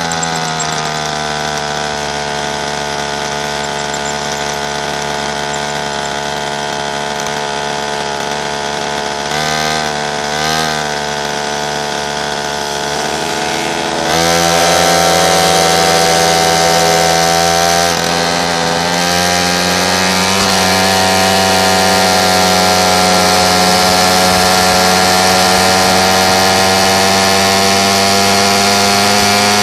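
Pocket bike's small engine running steadily, its pitch wavering briefly about ten seconds in; about halfway through it gets louder and higher as the throttle opens, then holds steady.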